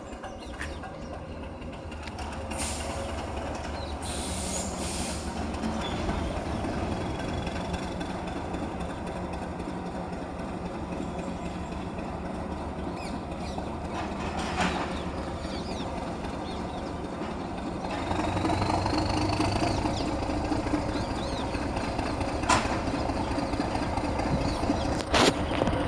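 Shunting locomotive running on the tracks: a steady low engine drone that grows louder about two-thirds of the way through, with a few sharp metallic clanks and a faint high wheel squeal.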